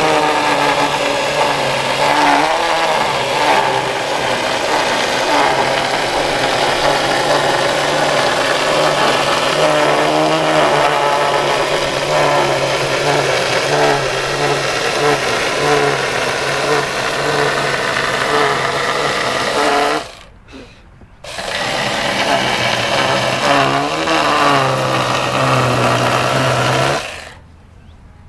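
Battery-powered electric chainsaw running and cutting into a wood slab, its motor pitch wavering as the chain bites and eases. It stops briefly twice, about two-thirds of the way in and again near the end, then starts again.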